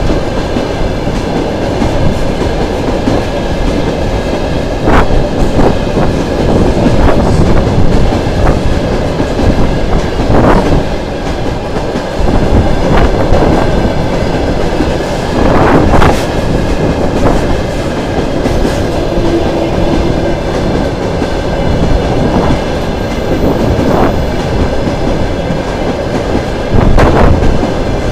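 Freight train wagons rolling past at close range: a loud, steady rumble of steel wheels on rail. Sharp metallic clanks break through every few seconds, the strongest about halfway through and near the end.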